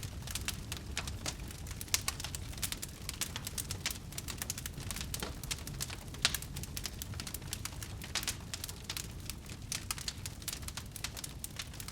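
Wood fire crackling in a fireplace: dense, irregular pops and snaps over a low steady rumble, with a few louder pops about two and six seconds in.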